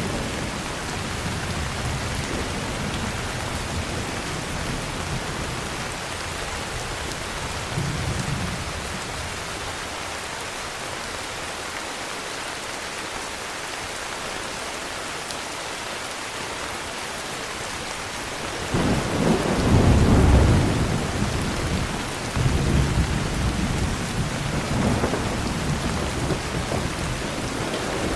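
Heavy rain falling steadily, with thunder. A low rumble fades over the first few seconds. About two-thirds of the way through, a louder roll of thunder builds and peaks, then keeps rumbling in waves.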